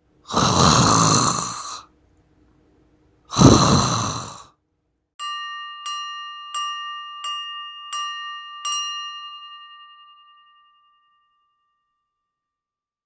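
Two breathy, sigh-like noises, then a small bell chime struck six times in quick even succession, about 0.7 s apart, on the same clear ringing note, which then rings out and fades.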